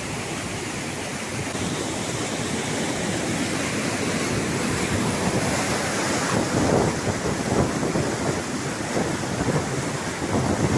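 Steady rushing of water with wind buffeting the microphone. The gusts come in irregular low thumps from about halfway.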